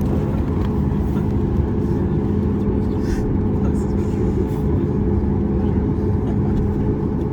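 Boeing 737 MAX 8's CFM LEAP-1B turbofan engines running at idle as the jet rolls slowly, heard from inside the cabin: a steady low rumble with a constant two-note hum.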